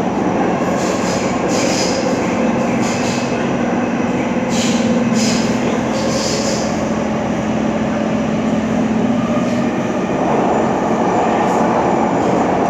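Cabin running noise of a Kawasaki C151 metro train with permanent-magnet synchronous motors, cruising between stations: a steady rumble and hiss with a low steady hum through the middle of the stretch. Several brief high-pitched squeals come in the first half.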